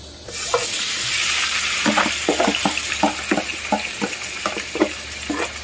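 Marinated shrimp hitting a hot oiled frying pan and sizzling loudly at once, the hiss fading slowly. Over the last few seconds comes a run of quick light knocks as the food is scraped out of the plastic container into the pan.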